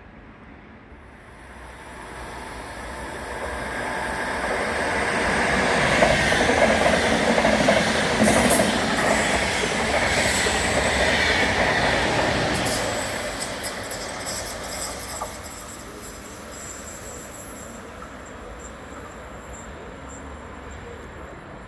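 A train passing through the station, its rolling wheel noise swelling up over several seconds, staying loud for about six seconds, then slowly fading away.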